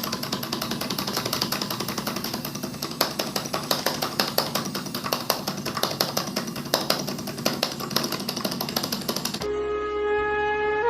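Rapid, steady clattering of a small motorised mechanism, many clicks a second over a low hum. It cuts off suddenly about a second and a half before the end and flute music takes over.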